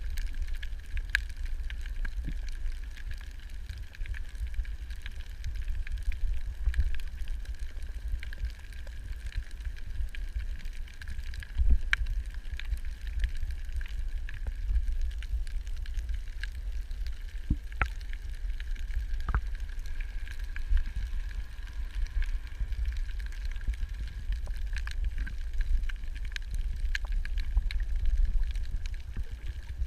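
Underwater ambience on a coral reef: a steady low rumble of water against the microphone, a faint steady whine, and scattered sharp clicks throughout.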